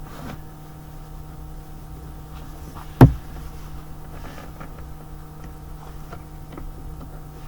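A single sharp knock about three seconds in, over a steady hum, with a few faint clicks.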